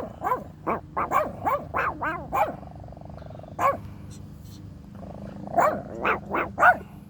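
Small dog yapping: a quick run of about nine high barks, a single bark, then a run of four more.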